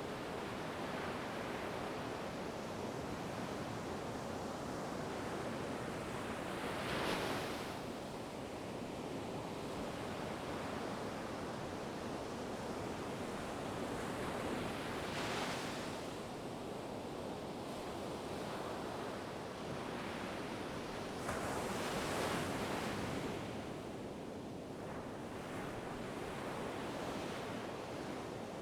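Ocean waves breaking on a shore over a steady wash of surf, with louder breakers about 7, 15 and 22 seconds in.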